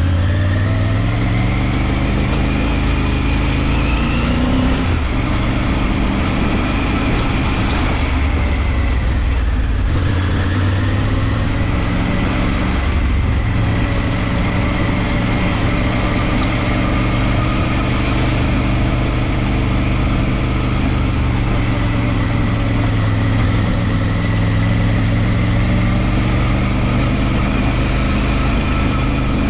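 Motorcycle engine heard from the bike itself, pulling at low speed: the revs climb for the first few seconds, drop with an upshift about five seconds in, climb and drop again around ten seconds, then hold steady.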